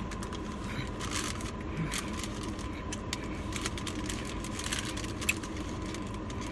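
Eating sounds: chewing and handling of fast food and its wrappers, heard as scattered small clicks and rustles over a steady background hum, with one sharper click about five seconds in.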